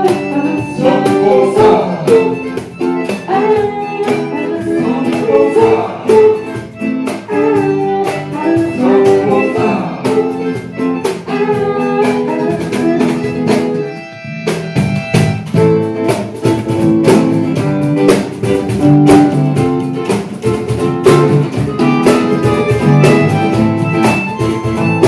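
Live rock band playing an instrumental passage of the song, with guitars leading over bass and drums. The playing drops out briefly about halfway through, then comes back in.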